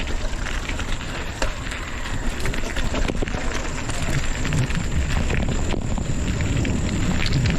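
Wind buffeting the microphone as a continuous uneven rumble, with scattered crackles and clicks.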